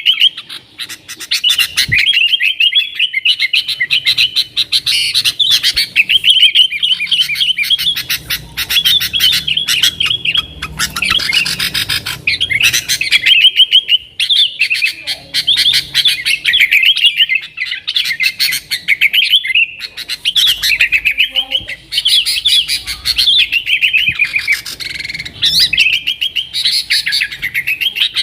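Yellow-vented bulbul (trucukan) singing continuously, in rapid, bubbling, warbling phrases with only brief pauses.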